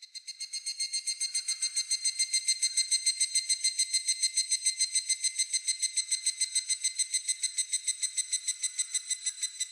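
Higurashi (evening cicada) calling: a rapid, high-pitched run of pulsed notes, about eight a second, that swells up over the first two seconds, holds steady and stops near the end.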